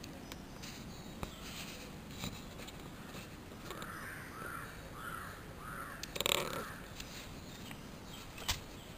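A bird calling in a quick run of about five short calls, followed by a louder burst about six seconds in and a sharp click near the end.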